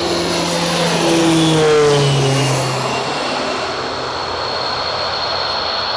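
Propeller airliner's engines going past, their tone dropping in pitch about one to three seconds in as it passes. A steady high whine carries on under it.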